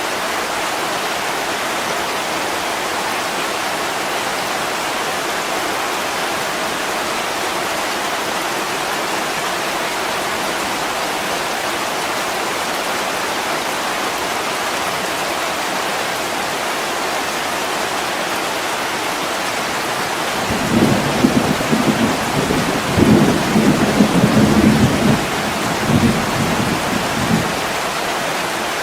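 Steady heavy rain pouring on a window, with a roll of thunder rumbling in about two-thirds of the way through, swelling several times over about seven seconds before dying away.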